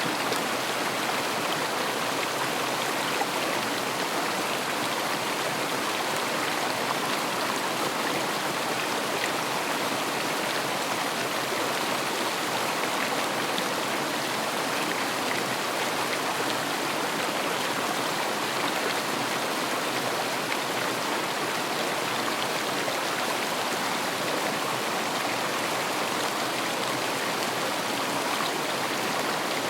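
River water rushing and babbling steadily over stones.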